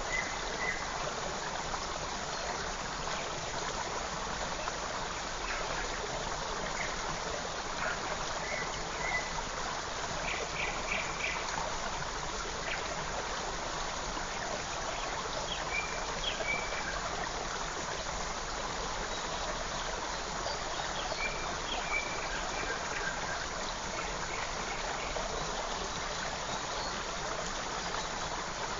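A forest creek running steadily over stones, with faint short bird chirps now and then.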